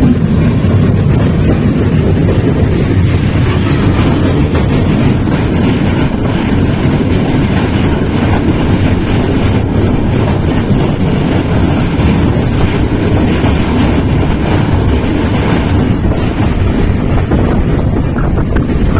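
Passenger train running along the track, heard from on board: a steady rumble of wheels on rail.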